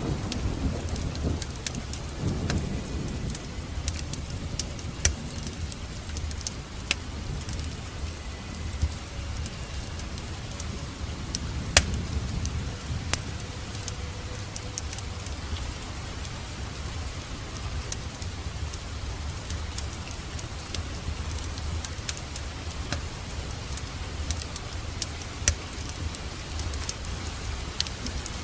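Steady rain with a fireplace crackling: sharp pops and snaps scattered over the hiss. A low rumble of thunder dies away in the first few seconds.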